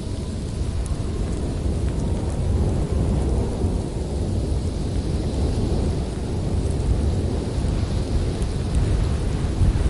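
Winter wind blowing hard: a deep, steady rumble with a higher hiss that swells and fades slowly.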